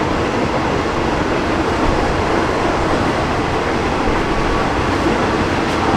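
Thai Railway passenger carriage running along the track, heard from inside with the windows open: a steady, even rumble of the moving train with no clear clickety-clack beat.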